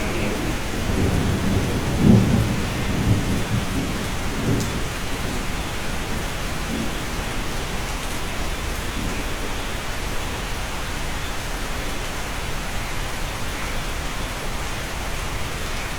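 Steady rain falling, with a low roll of thunder in the first few seconds, loudest about two seconds in, that fades back into the even hiss of the rain.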